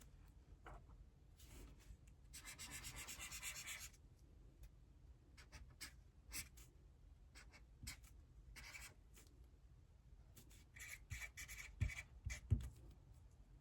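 Handwriting on paper: a run of short scratchy strokes, with a longer stretch of steady scratching about two seconds in, and two sharp taps near the end.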